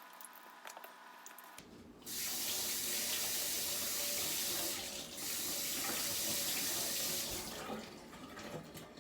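Water tap running into a sink for about five seconds, starting about two seconds in, with a brief dip in the middle before it is turned off.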